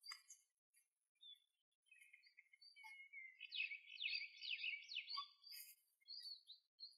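Small birds chirping faintly, with scattered short high calls and a quicker run of chirps about halfway through.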